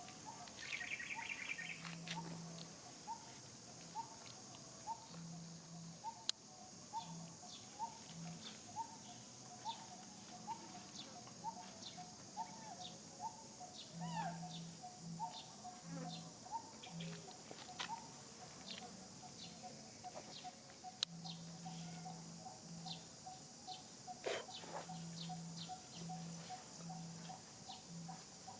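A bird calling over and over in short chirps, about one and a half a second, over a steady high hiss, with scattered sharp clicks.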